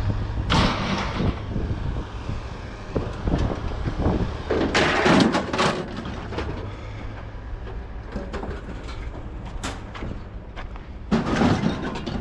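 Low engine rumble throughout, with three bouts of clattering as scrap metal is handled: one near the start, a longer one around five seconds in, and one near the end.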